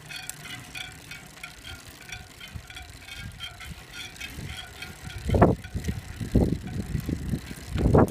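Spokes of a Reynolds Strike SLG carbon wheel pinging in a steady rhythm, about three short metallic pings a second, while being pedalled hard (around 300 W) at low speed. From about five seconds in, several gusts of wind buffet the microphone.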